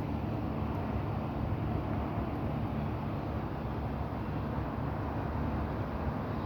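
Steady outdoor night ambience: wind with an even low rumble, no separate events.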